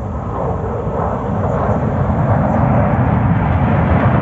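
Jet aircraft flying past: a loud, steady roar that swells over the first couple of seconds and then holds, typical of the Patrouille de France's Alpha Jets passing over during the display.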